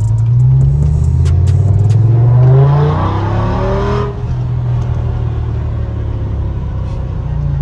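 Straight-piped BMW E60 M5's 5.0-litre V10 accelerating hard, its note rising steadily for about four seconds before dropping suddenly as the revs fall. It then runs at a steady lower pitch and starts climbing again near the end.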